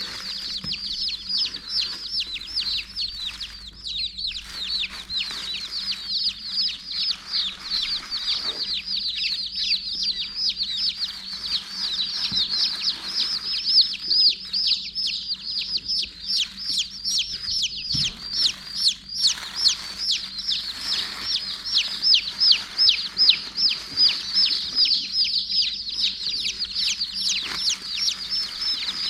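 A box of Silkie baby chicks peeping constantly, many short falling peeps overlapping several times a second. A few brief rustles come in here and there.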